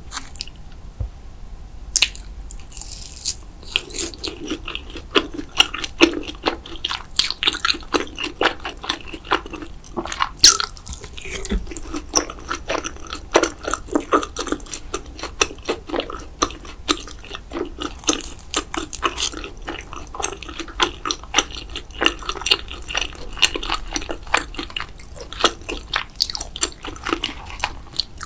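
Close-miked eating: a person chewing with many quick wet mouth clicks, with sharper bites about two seconds in and around ten seconds in.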